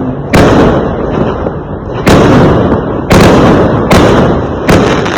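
Fireworks exploding: five loud bangs at uneven intervals, each followed by a rumbling echo that dies away until the next.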